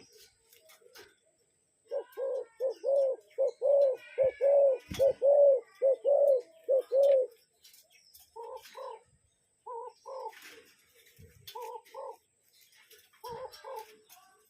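Spotted dove cooing: a fast run of about a dozen coos, then four short two-note coos spaced a second or two apart.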